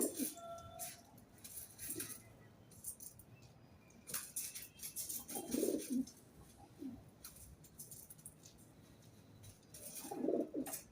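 Pigeons cooing in low, throaty phrases, three times about five seconds apart, with light scratchy clicks and rustles in between.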